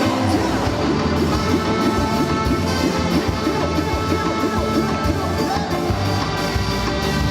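Live ska band music, a full band with a steady beat and sustained instrument notes, played loud through a concert sound system.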